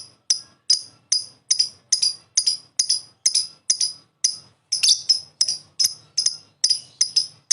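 Lovebird giving a long run of short, sharp, high chirps, evenly spaced at about two and a half a second.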